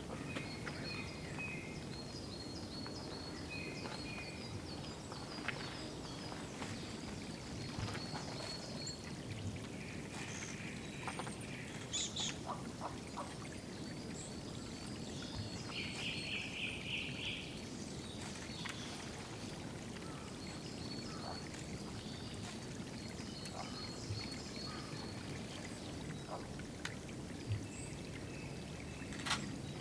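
Water trickling and pouring steadily at a woodland water hole, with small birds calling over it: short repeated high notes, brief trills, and a buzzy pulsed call about halfway through.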